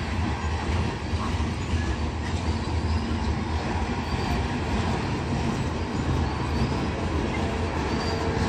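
Train rolling past on the rails: a steady low rumble of wheels and cars, with a few faint, brief high-pitched wheel squeals.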